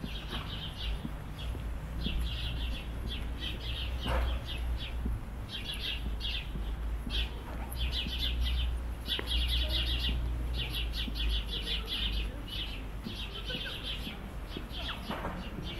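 Small birds chirping in quick clusters of high notes, one cluster after another almost without a break, over a low steady rumble.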